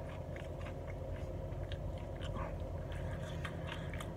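Close-up chewing of a mouthful of fried whitefish with tartar sauce: many small wet mouth clicks and smacks, over a steady low hum.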